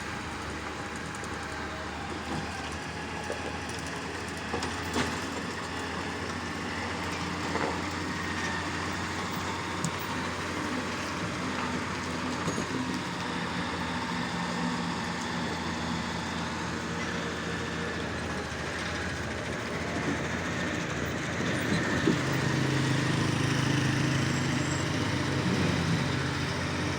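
Diesel engines of heavy road machinery (a road grader and a loader tractor) running steadily while they work, with scattered light knocks; the engine note grows louder about three-quarters of the way through.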